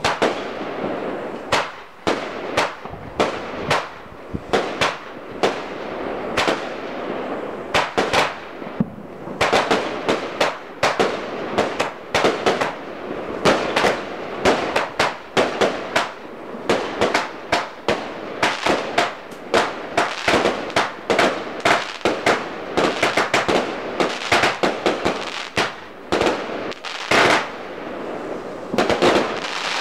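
Fireworks going off in a continuous rapid series of sharp bangs and crackling bursts, several a second at the busiest.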